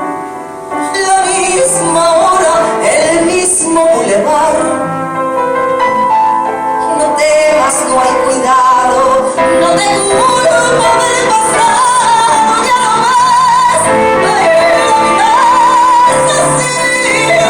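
A woman singing a copla ballad with vibrato over piano accompaniment, holding long wavering notes in the second half.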